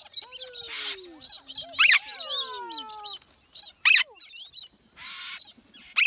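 A flock of cockatoos and other parrots calling in flight, several at once. Harsh screeches overlap with drawn-out falling calls, and there are loud sharp screeches about two and four seconds in.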